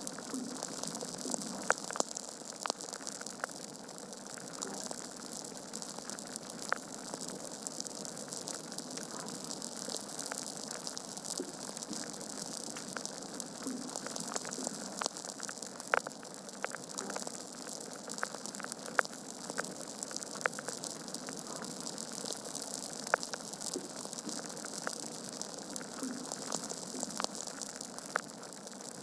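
Wood fire burning in a fireplace: a steady soft hiss with irregular crackles and sharp pops from the burning logs.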